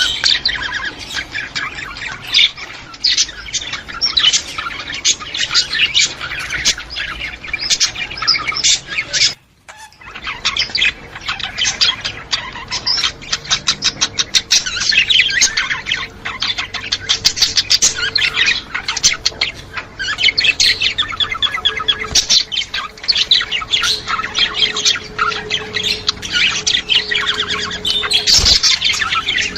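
A flock of budgerigars chattering, with rapid chirps, warbles and squawks; the kind of flock chatter played to stimulate pet budgies. The sound drops out for about half a second about nine and a half seconds in.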